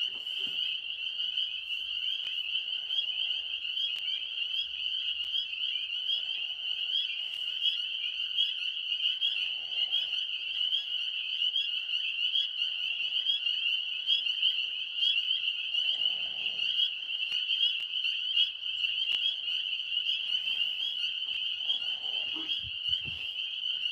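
Chorus of tree frogs calling steadily: a dense, high-pitched trill of rapid, overlapping calls that never lets up.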